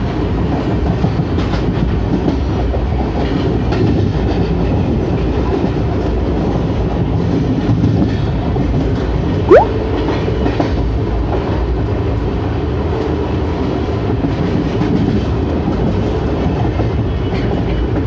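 Ernakulam Duronto Express running at speed: a steady rumble with the wheels clattering over the rails. About halfway through comes one short, sharp rising squeal, the loudest moment.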